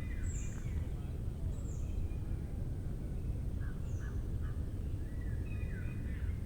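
Wild birds calling in a mangrove forest: scattered short chirps, some of them high thin notes that fall in pitch, over a steady low rumble.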